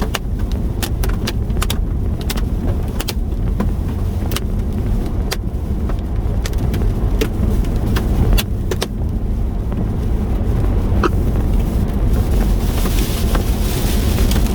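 Car driving at road speed, with sharp, irregular ticks of hailstones hitting the car's body, a few a second, thinning out partway through. A hiss of wind and rain grows louder near the end.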